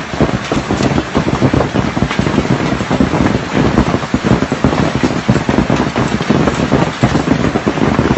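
Large hailstones pelting down hard, a loud, dense and unbroken clatter of countless impacts.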